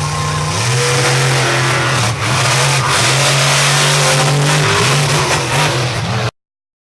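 Monster truck engine revving hard: the pitch climbs about half a second in and then holds at full, loud running. The sound cuts off abruptly near the end.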